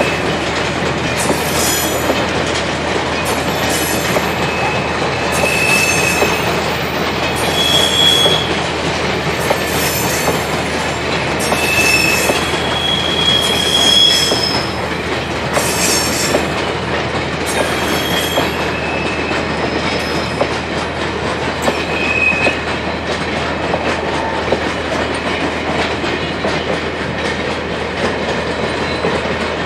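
A train rolling past on the rails, wagon wheels clacking steadily, with short high-pitched wheel squeals every couple of seconds that die away after about twenty seconds.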